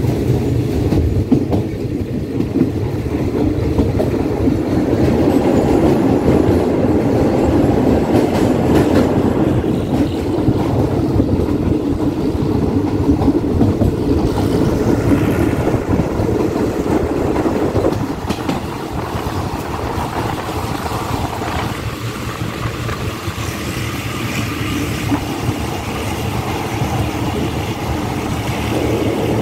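A moving passenger train's steady running rumble and clatter of wheels on the rails, heard from aboard the carriage. The noise drops a little about eighteen seconds in.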